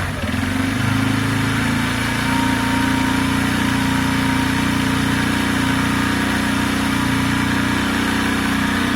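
Benelli Keeway 125cc motorcycle engine idling steadily with the choke on, just after its first start following a long period of sitting.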